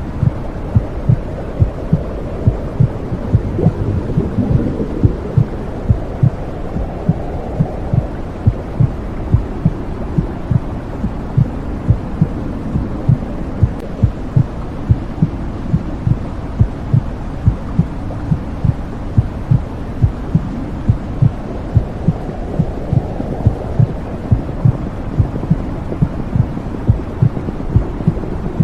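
Womb sound: a steady, regular heartbeat of low thumps over a constant low whooshing.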